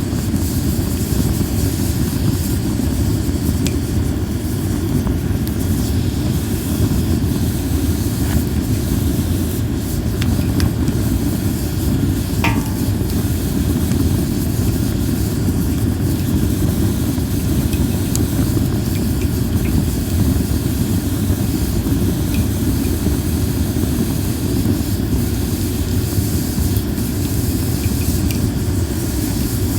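Linden-wood campfire burning with a few sparse crackles and pops over a steady low rumble.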